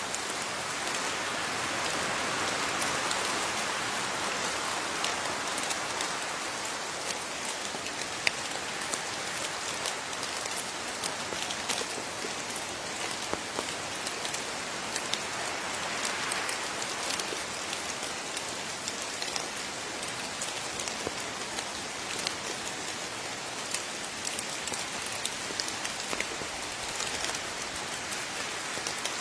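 Steady rain falling, with a continuous hiss and many distinct drops ticking on a surface, a little heavier in the first few seconds.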